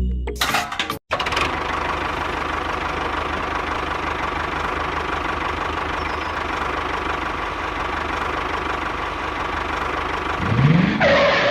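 A motor running steadily, engine-like, for about nine seconds after a sudden cut about a second in; near the end a rising sound comes over it before everything cuts off.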